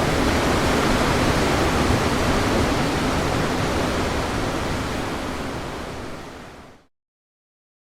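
Waterfall on the Rio Butiá, a steady full rush of falling water that fades out over the last couple of seconds and ends in silence about seven seconds in.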